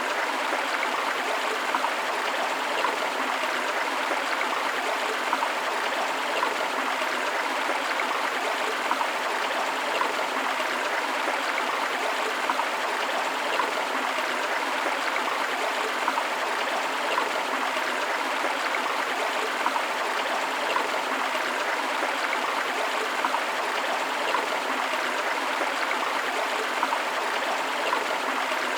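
River water rushing steadily over rocks: a continuous, even rush with small irregular splashes, and little deep rumble.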